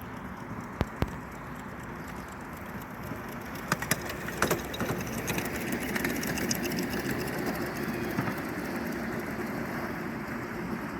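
Miniature park railway train running: a few sharp clicks, then a steady mechanical running sound that grows louder about four seconds in.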